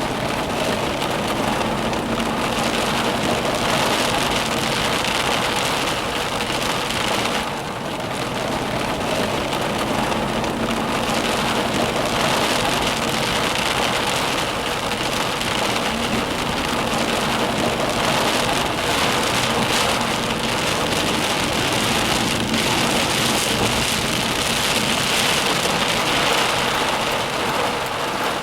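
Heavy rain from a severe thunderstorm, a steady dense downpour, with a faint low hum that comes and goes.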